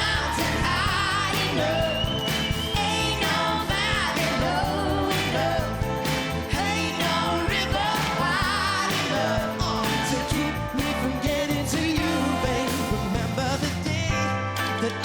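Live pop-soul duet singing with full band backing: sung melody lines with vibrato over bass and steady drums.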